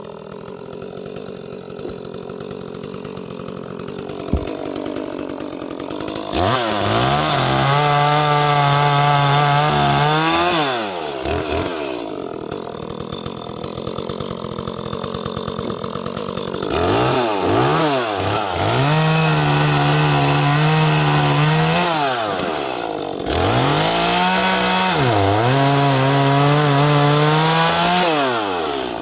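Small Echo chainsaw idling, then run up to full throttle three times for several seconds each and dropping back to idle between. The pitch sags briefly during the runs, as when the chain bites into wood.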